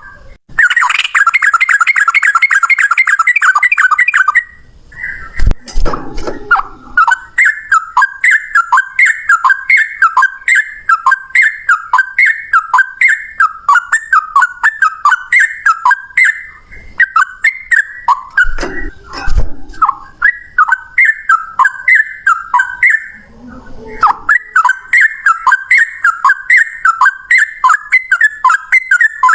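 Sooty-headed bulbul (trucukan) singing in its rapid 'ropel' style: a brief fast trill, then long unbroken runs of quick, repeated whistled notes, with a short pause near the end. A few low thumps sound about five seconds in and again after about nineteen seconds.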